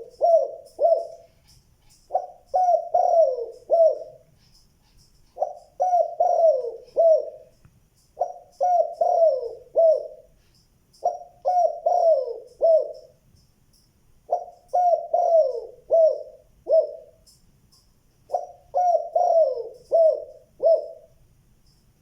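Spotted dove cooing: a phrase of four or five low coos, repeated six times about every three to four seconds. Faint high chirps of a small bird sound behind it.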